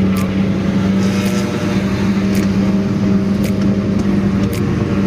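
A car's engine and road noise heard from inside the cabin while driving at a steady speed: a constant low drone with no revving. Faint ticks come about once a second.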